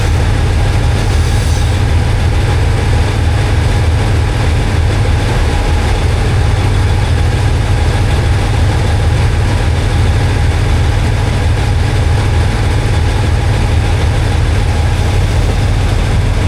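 Train's diesel engine running with a steady, deep drone.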